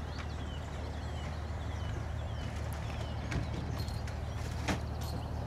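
Small birds chirping in short, quick calls over a steady low rumble, with two sharp knocks in the second half.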